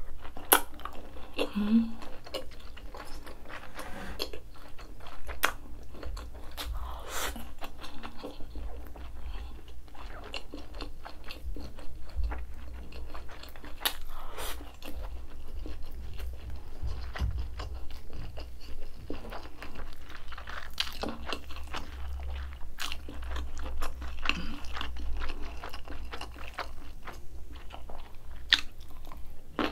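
Close-miked chewing and biting of grilled pork belly, rice and kimchi. The sound is a continuous run of sharp crunches and wet mouth clicks.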